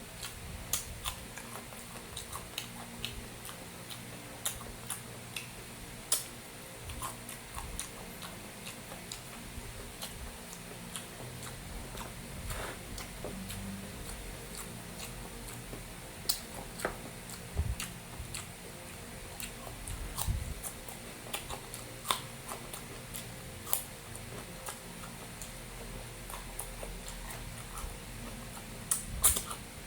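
Close-up eating sounds: a person chewing a mouthful of beef kare-kare and rice, with irregular small clicks and mouth noises every second or so.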